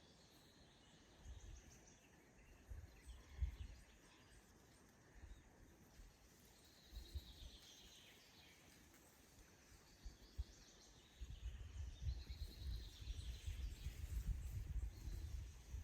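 Faint songbird singing a short, falling, trilled phrase every few seconds. Under it is an uneven low rumble that grows heavier in the second half.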